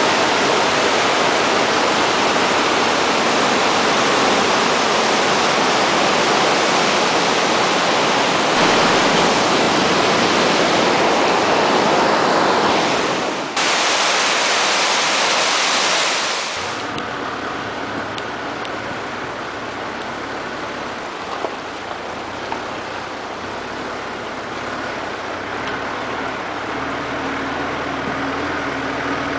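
Loud, steady rushing of water, typical of floodwater pouring or churning, with a brief break about halfway. Near the middle it cuts to a quieter rushing with a faint low steady hum underneath.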